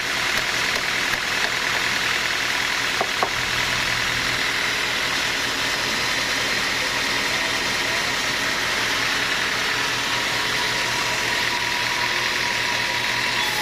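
Sawmill machinery running with a steady mechanical drone and a brief click about three seconds in.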